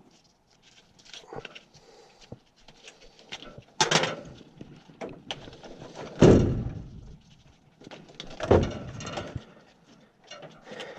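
Handling noise as a furnace condensate pump is pulled out: scattered clicks and clunks with three louder thumps spread through.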